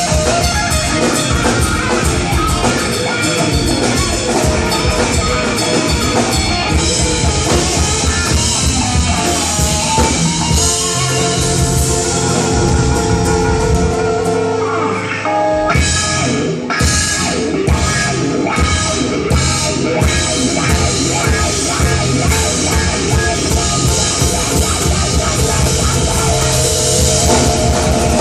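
Live rock band playing an instrumental passage with drum kit and guitar. A little past halfway the band breaks into a run of accented hits, then the full groove comes back.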